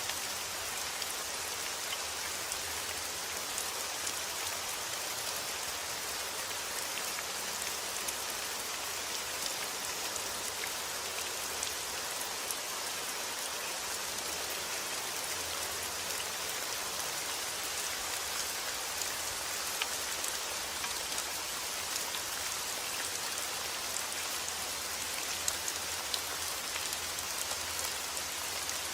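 Steady rainfall, a dense even hiss with scattered individual drops ticking on a surface.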